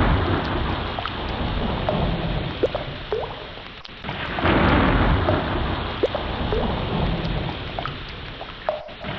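Ocean waves surging and breaking about every five seconds, each swell of rushing water fading before the next, with short rising chirps scattered between the surges.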